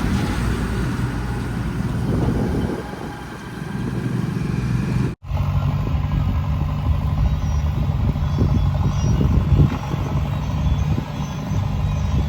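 Diesel engines of heavy machinery such as a backhoe loader and a loaded tractor or truck, running steadily. The sound breaks off for an instant about five seconds in and resumes with a steadier engine hum.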